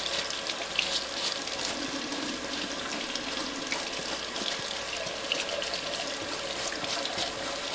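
Tap running cold water steadily into a sink over a golf shoe, with a brush scrubbing grass off the spiked sole.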